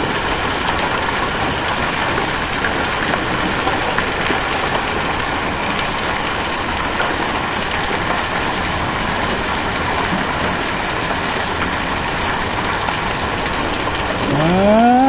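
Rain and hail up to penny size pelting down in a thunderstorm: a steady hiss of falling water with many small scattered ticks of hailstones striking.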